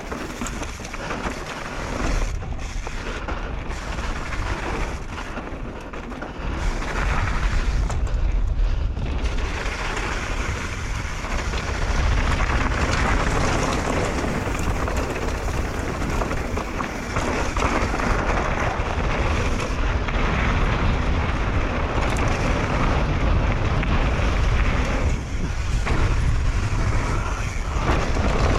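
Mountain bike descending a dirt trail at speed: wind rushing over the camera microphone with tyre and trail noise, a steady rush with heavy low rumble that grows louder about six seconds in.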